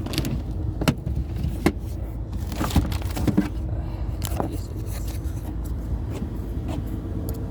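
Car engine idling with a steady low rumble, with several sharp clicks and knocks over it in the first few seconds.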